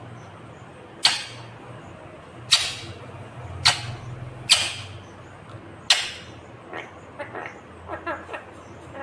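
Indian ringneck parrot giving five loud, harsh screeches about a second apart, then softer rapid chattering calls.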